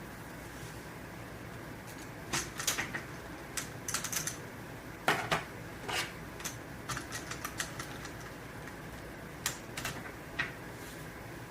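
Plastic LEGO parts clicking and knocking irregularly, a few sharp clicks at a time with short pauses, over a low steady background.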